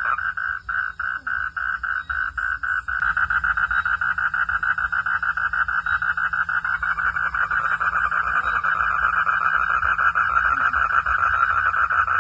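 Frogs calling in a chorus: a fast train of short pulsed calls, about five a second, thickens about three seconds in into a denser, louder pulsing chorus as more callers join.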